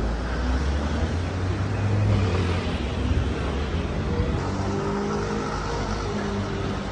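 A car engine passing close by on a city street with a deep rumble that swells to its loudest about two seconds in and then eases off, over steady traffic noise.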